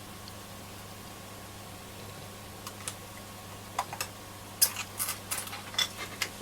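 Sharp small clicks and taps of hand tools working on a transistor radio's circuit board while a resistor leg is being worked free during desoldering, sparse at first and then a quick cluster about two-thirds of the way in, over a steady low hum.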